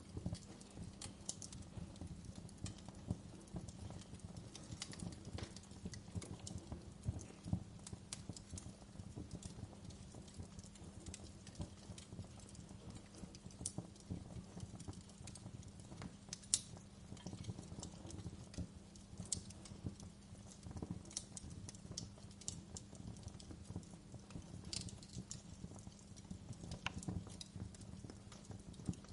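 Wood fire crackling in a fireplace, with irregular pops and snaps over a low steady rumble; one sharper snap about halfway through stands out.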